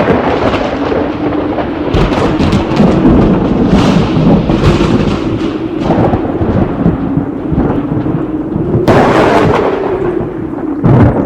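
Storm sound effect: steady heavy rain and rumbling thunder with a wavering tone underneath, and a loud crash of thunder about nine seconds in and another near the end.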